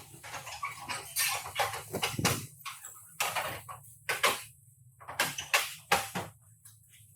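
Irregular knocks and metallic clatter, with several sharp strikes spaced unevenly, over a steady low hum.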